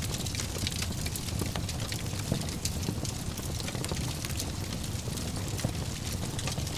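Wood fire in a fireplace crackling, with many small irregular pops over a low steady rumble; one sharper pop about two seconds in.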